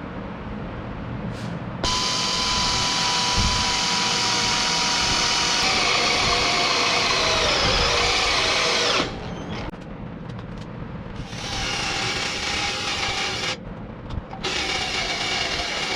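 Electric power tool, most likely a drill, running in several bursts with short pauses between them. The first and longest run sags in pitch partway through, as if under load.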